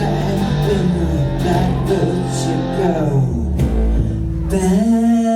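Live band playing loud rock music with electric guitar, bass, drums and singing; the drums drop away about three seconds in and a guitar chord rings on near the end.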